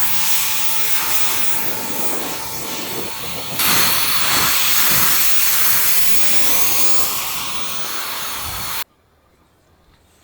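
Loud, steady hissing noise that changes abruptly about three and a half seconds in and cuts off suddenly near the end.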